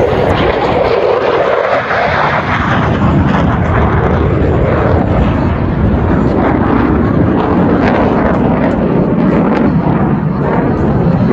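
Thunderbirds F-16 fighter jets flying overhead, their jet engine noise a loud, continuous roar. The pitch falls in the first couple of seconds as a jet passes.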